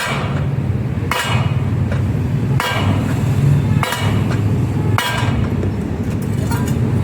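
Hammer blows on a bent aluminium motorcycle mag wheel that is being heat-straightened: about five ringing metallic strikes, roughly one every second and a quarter, over a steady low rumble.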